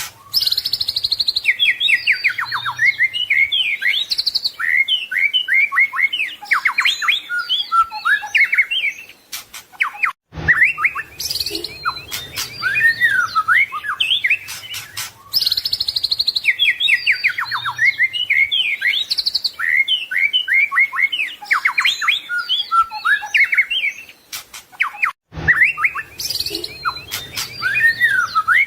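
White-rumped shama (murai batu) singing a fast, varied song of whistles, trills and chattering phrases with no pause between them. The song stops briefly about ten seconds in and again near the end, where the recording loops.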